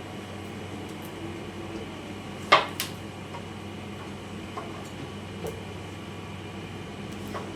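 Kitchen handling sounds: a sharp knock about two and a half seconds in, quickly followed by a second, then a few fainter taps, over a steady background hum.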